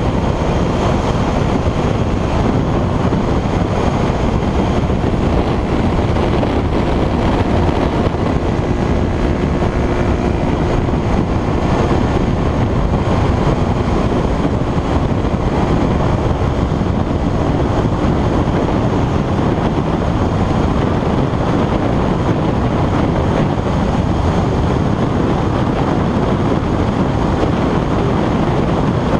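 Steady, loud wind rush on the microphone of a motorcycle moving at speed. The sound stays even, with no rise or fall in engine pitch.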